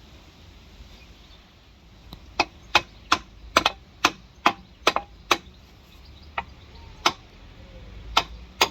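Hammer blows knocking a front shock absorber strut down into its wheel carrier, about fourteen sharp knocks. They start about two seconds in at roughly two a second, then come further apart near the end.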